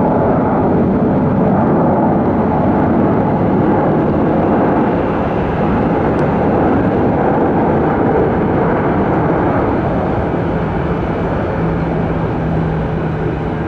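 Jet airliner engines running loud and steady, with a dense rumble that eases slightly over the last few seconds.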